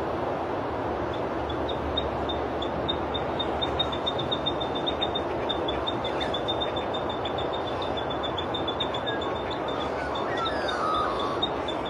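Thick-billed spiderhunter singing a long, rapid, even series of short high notes over a steady rushing background noise.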